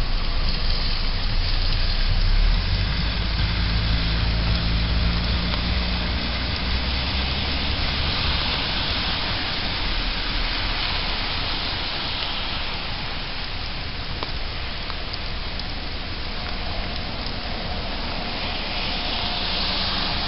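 Steady rain hiss from a thunderstorm, with a low rumble through the first several seconds that fades away.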